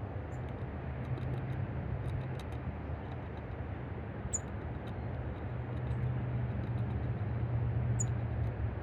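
Steady low hum with background noise, and two brief high bird chirps, one about four seconds in and one near the end, over scattered faint high ticks.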